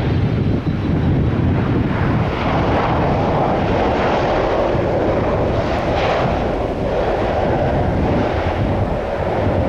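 Jet airliner on landing approach passing the microphone, its engine noise swelling over a few seconds, peaking about six seconds in and fading again. Wind buffets the microphone with a steady low rumble throughout.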